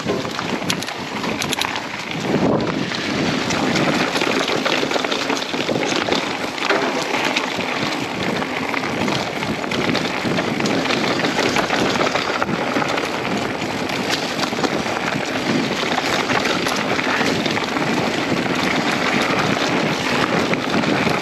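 Mountain bike riding down a dirt trail: wind rushing over the microphone and tyres running on dirt, with frequent small clicks and rattles from the bike over the rough ground.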